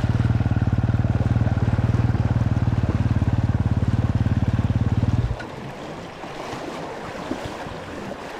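Dirt bike engine idling with an even pulse, then cut off suddenly about five seconds in, leaving the rush of river water.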